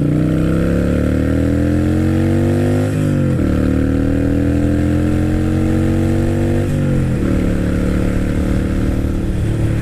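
Motorcycle with loud exhaust pipes accelerating hard. The engine note rises, drops at an upshift about three seconds in, rises again, drops at a second upshift about seven seconds in, then holds steady at cruising speed.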